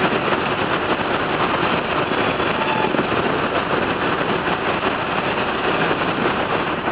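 Cessna 172's piston engine and propeller running with a steady drone, heard from inside the cabin together with the rush of air over the airframe.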